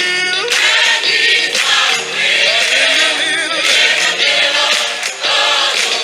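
Choir singing a gospel song, many voices together with musical backing.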